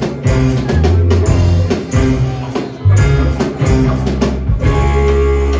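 Roots reggae band playing live: heavy bass line and drum kit with guitar. The drum hits stop near the end and a low bass note is held.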